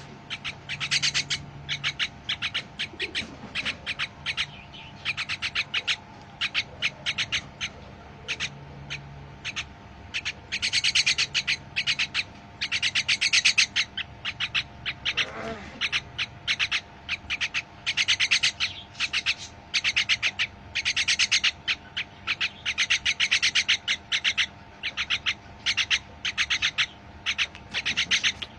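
Birds chirping in rapid, dense bursts of about a second each, one burst after another, with a single falling whistle-like call about halfway through.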